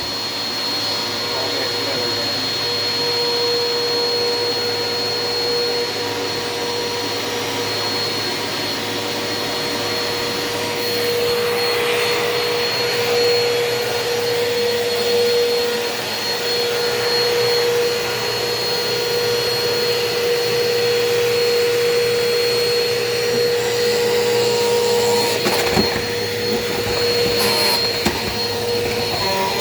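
Upright bagless vacuum cleaner running steadily with a constant whine, with a few brief knocks near the end.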